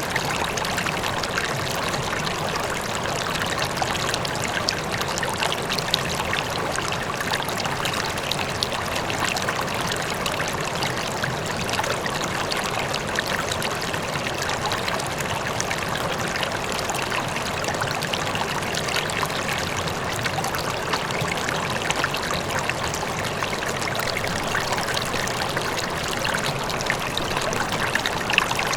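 River flowing steadily: an even, continuous rush of water with small trickling splashes, and a faint waterfall in the distance.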